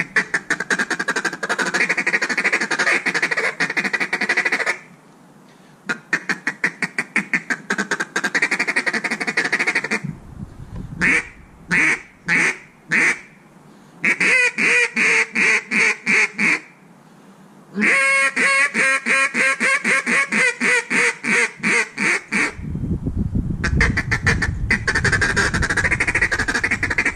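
Zink NBG single-reed acrylic duck call being blown with a raspy tone. It plays fast rolling runs of short notes like a feed chuckle, broken by pauses, with a handful of separate single quacks around the middle.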